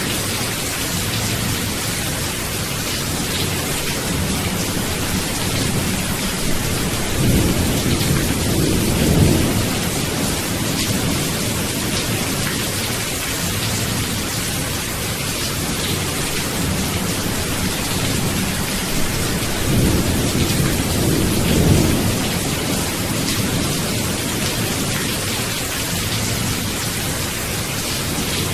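Steady rain falling, with low rolls of thunder rumbling up twice, about a quarter of the way in and again about two-thirds of the way through.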